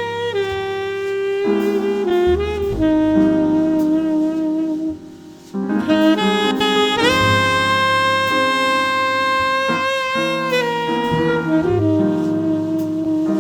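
Jazz saxophone playing a slow ballad melody in long held notes, with piano and double bass accompanying. The saxophone briefly drops out about five seconds in, then holds one long note for roughly three seconds.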